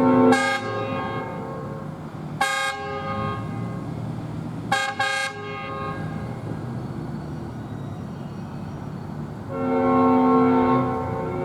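Diesel locomotive's five-chime air horn (Nathan S5T) sounding a series of blasts for a grade crossing: a blast about two seconds in, two short toots close together about five seconds in, and a longer chord near the end.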